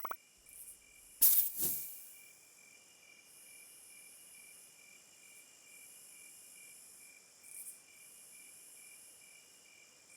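Insects chirping steadily in a high, regularly pulsing tone over a high hiss. About a second in there is a brief loud sweeping noise that falls in pitch.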